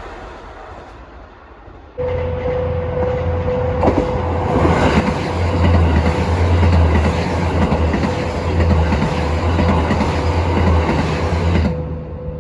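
Train wheels clattering over rail joints as a train passes, a clickety-clack of knocks over a low rumble and a steady hum. The sound cuts in abruptly about two seconds in, after a fading earlier pass.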